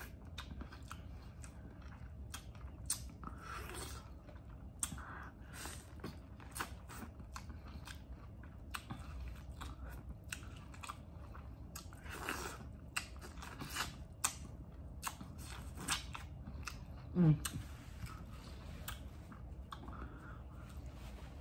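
Close-miked chewing and wet lip smacking on sauce-coated corn on the cob, with many short sharp clicks and smacks. A brief low vocal sound falling in pitch, the loudest moment, comes about three-quarters through.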